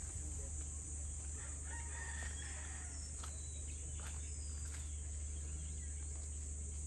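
A rooster crowing faintly about two seconds in, over a steady high drone of insects and a low steady hum.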